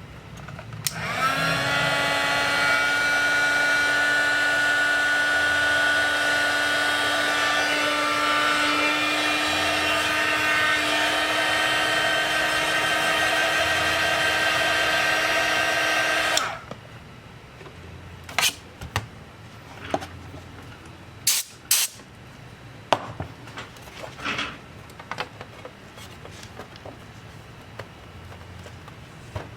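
A small electric motor-driven tool spins up quickly about a second in, runs at a steady high pitch for about fifteen seconds, then cuts off suddenly. A few scattered clicks and taps follow.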